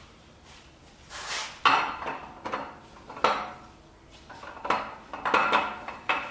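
Metal engine parts and hand tools clanking and rattling against each other during an engine teardown. The clinks begin about a second in, with sharp hits near two and three seconds and another cluster near the end.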